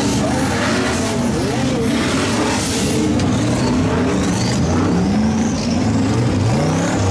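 Off-road truck engine revving hard under load, its pitch rising and falling again and again.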